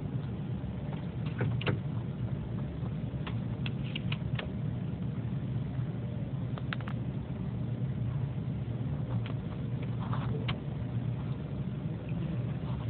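A woodpecker tapping its bill on window glass: scattered sharp single taps, a few in quick succession, at irregular intervals. A steady low rumble of background noise runs underneath.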